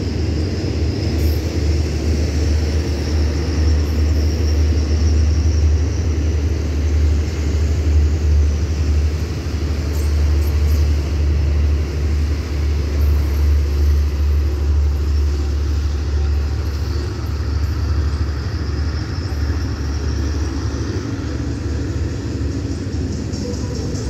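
Passenger train's carriages rolling along the track and drawing away, a steady low rumble that eases a little in the second half.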